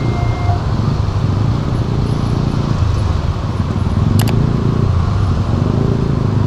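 Motor vehicle engines running steadily at a railway level crossing, with one sharp click about four seconds in. The crossing's electronic warning tones stop about half a second in.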